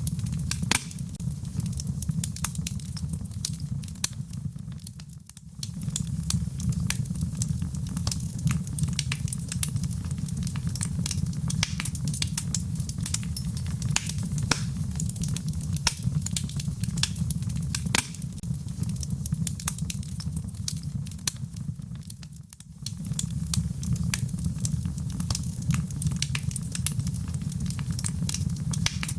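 Wood campfire burning, with frequent sharp crackles and pops over a steady low rumble. The sound dips briefly twice, about five seconds in and again about twenty-two seconds in.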